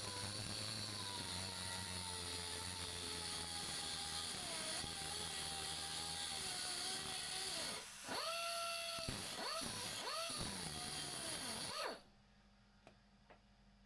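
Cordless power tool motor whining, its pitch slowly sagging, then stopping and being run again in short trigger pulls that swoop up and down in speed, before cutting off abruptly.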